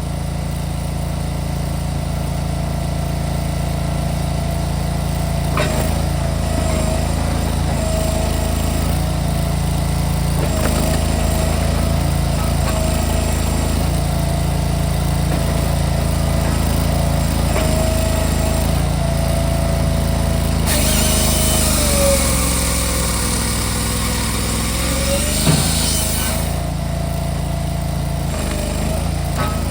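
Cord King firewood processor's engine running steadily. About two-thirds of the way through, its pitch sags for a few seconds under load while a hiss rises, then it comes back up.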